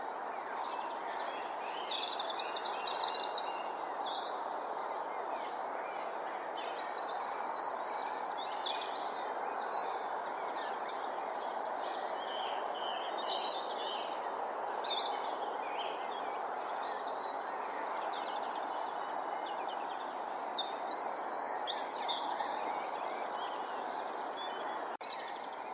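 Outdoor marsh ambience: small birds chirping and singing on and off over a steady background hiss.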